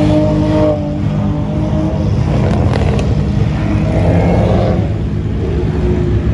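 Car engines running as cars crawl past in slow traffic: a loud, steady low rumble, with one engine's note coming up for a moment about four seconds in.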